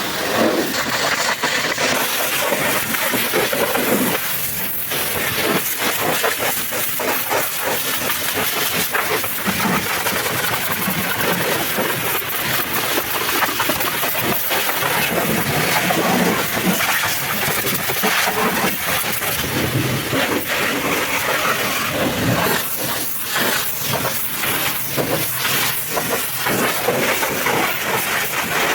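High-pressure washer jet spraying water against a truck, a loud steady hiss that shifts a little in tone as the spray moves over different surfaces.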